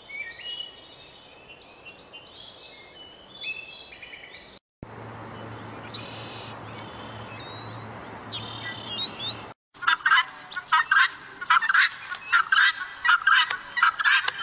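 Birds calling, in three separately cut clips. The first holds scattered high chirps, the second a few thin gliding calls over a low steady hum, and the last, the loudest, a rapid, irregular run of calls.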